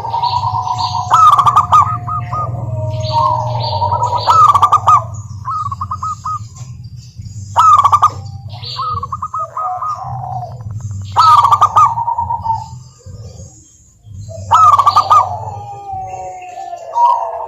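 Several zebra doves cooing in overlapping staccato phrases. A loud rolling call comes about every three and a half seconds, five times in all, over a steady low hum.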